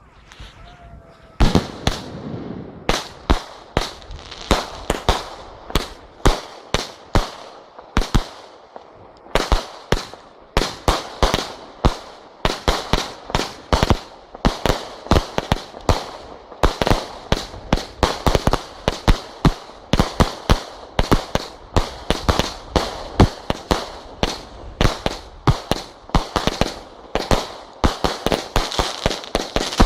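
Fireworks display going off: a rapid, continuous series of sharp bangs, several a second, starting about a second and a half in, with a brief lull about eight seconds in.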